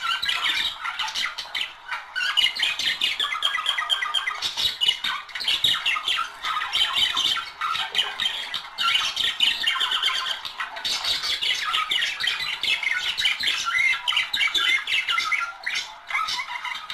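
Budgerigars chattering and warbling, a dense, unbroken run of fast chirps and squawks, as sung by a courting pair.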